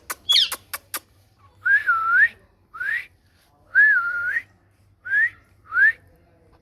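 A quick run of sharp clicks in the first second, then a series of clear whistles: short rising ones and two longer ones that rise, dip and rise again, repeated with short gaps.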